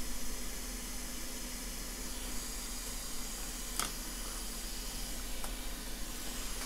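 Hot-air rework station blowing a steady hiss of air over the phone's logic board to melt the solder under a chip, with a single light click about four seconds in.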